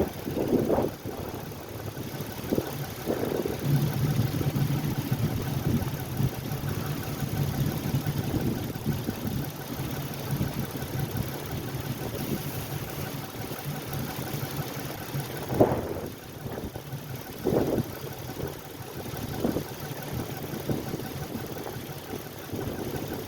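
Ford Edge engine idling steadily while it warms up in freezing cold, with a few short thumps.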